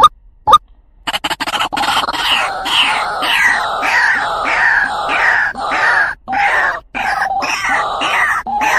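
White-breasted waterhen calling. Two short single notes about half a second apart, then from about a second in a loud, continuous run of repeated calls, two to three notes a second.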